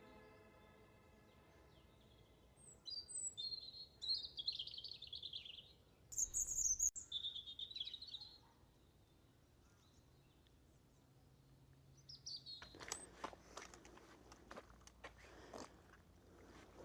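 Small birds in a reedbed calling in short bursts of high chirps, with a brief loud rustle partway through. From about two-thirds of the way in, footsteps crunching along a path.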